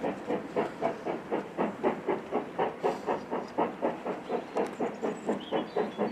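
Steam locomotive working under steam, its exhaust beats coming in a steady, fast rhythm of about five chuffs a second, with a hiss of steam.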